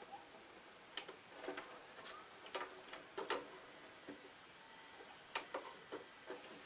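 VCR fast-forwarding a repaired VHS tape: faint, irregular clicking and ticking from the deck's mechanism.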